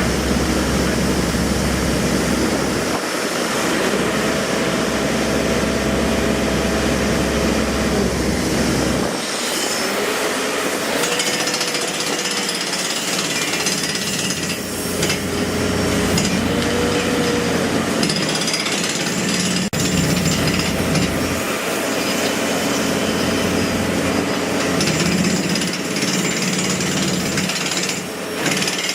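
Jackhammer hammering continuously, with the low hum of an engine running underneath that drops away about a third of the way in.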